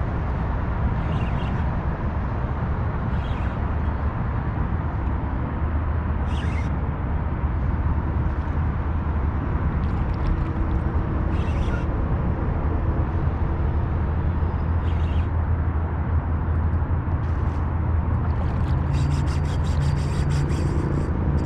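A steady low motor drone with a rushing haze over it, thickening in the last few seconds. Short scattered clicks, with a fast run of clicking near the end.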